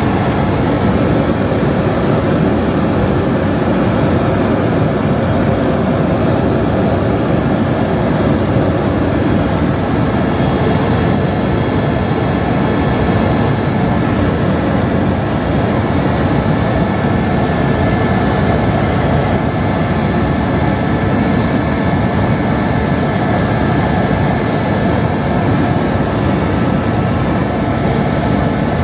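Helicopter running steadily in flight: an even, loud rumble with a thin, steady high whine over it.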